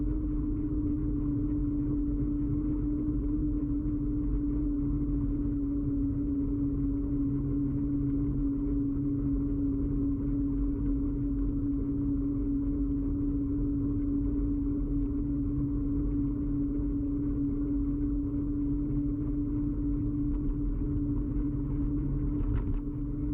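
Ride noise picked up by a camera fixed to a moving bicycle: a steady low rumble of road vibration with a constant humming tone over it, and a couple of faint ticks near the end.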